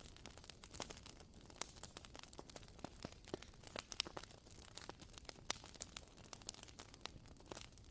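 Wooden-wick candle crackling: a quiet, irregular stream of small pops and ticks like a tiny campfire.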